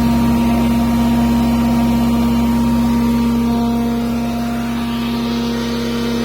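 Deutz diesel engine running at a steady high speed during a power test, with a strong even hum that holds one pitch.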